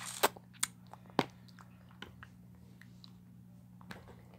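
Close-up chewing of cocktail shrimp, with a few sharp, wet mouth smacks in the first second or so, then quieter chewing.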